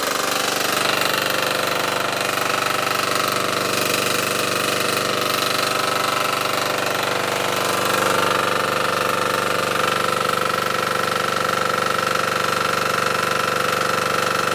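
A power weeder's 6 HP diesel engine running steadily under load, driving an attached water pump through its engaged clutch.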